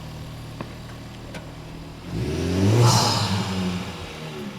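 Car engine idling, then revving up about two seconds in, with the pitch rising to a peak and falling back as it settles.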